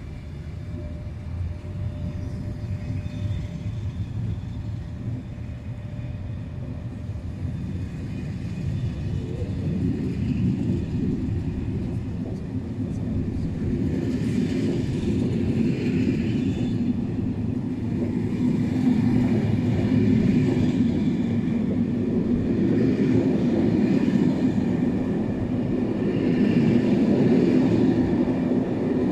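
Intercités passenger train pulling out, its coaches rolling past with a steady rumble of wheels on rail that grows louder as the train gathers speed.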